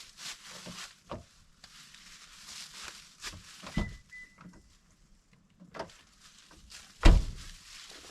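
Dull thumps and rustling as a doe is hauled onto a truck, with the heaviest thump about seven seconds in.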